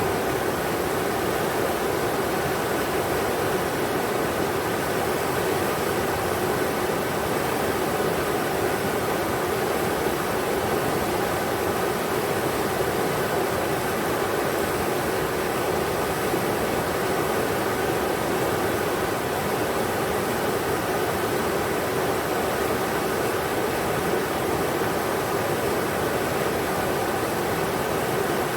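River water rushing over rocks, a steady even roar of white noise with no breaks.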